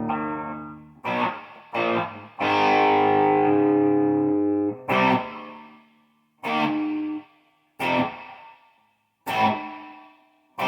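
Electric guitar chords played through a guitar amp: a chord held and ringing for about two seconds, then single strummed chords every second or so, each left to ring and fade or muted short.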